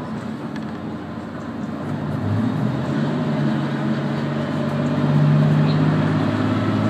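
Diesel railcar heard from inside the carriage: a steady running rumble, with the engine drone coming in about two seconds in and growing louder.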